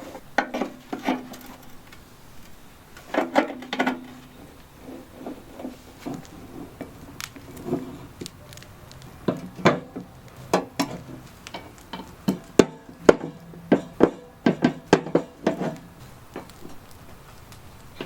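Irregular metal clanks and knocks from hand tools and parts on a lawn tractor mower deck, some ringing briefly, in clusters with a quick run of strikes near the end.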